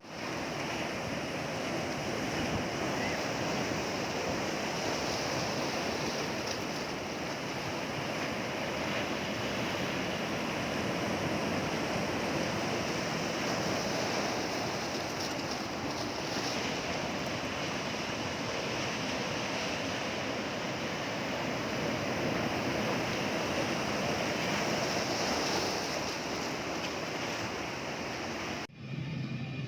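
Sea waves breaking on a shore: a steady wash of surf that swells and eases slowly. It cuts off suddenly near the end, where music starts.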